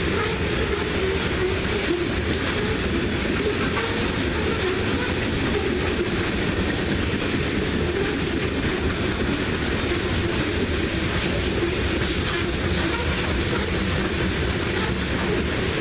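Coal train's freight cars rolling past: a steady, loud rumble and rattle of steel wheels on the rails, with some clickety-clack.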